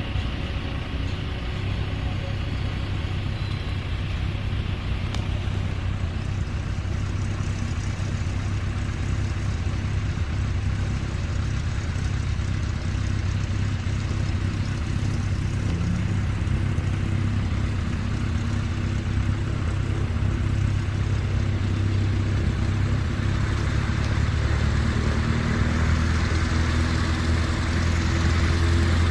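Small propeller plane's piston engine running steadily, growing louder over the last few seconds.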